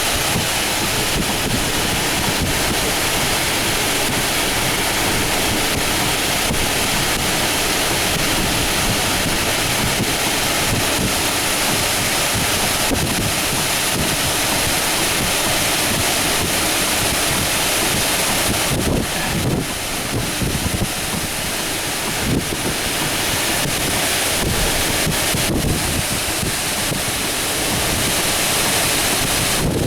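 Severe-thunderstorm wind of about 50 mph rushing steadily through trees, tearing off leaves, with wind buffeting the microphone. The wind eases and surges a few times in the last third.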